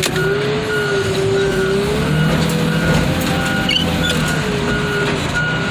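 Heavy equipment engine running under load with a hydraulic whine that rises and falls in pitch, and a faint short high beep repeating steadily.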